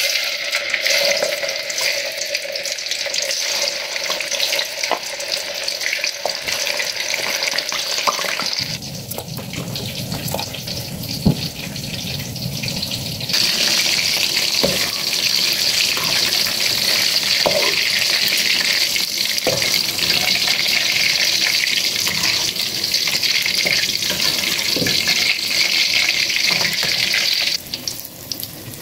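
Tofu pieces deep-frying in hot oil in a wok, a steady loud sizzle with a few light knocks of a spatula. The sizzle drops back about nine seconds in and comes back stronger about four seconds later.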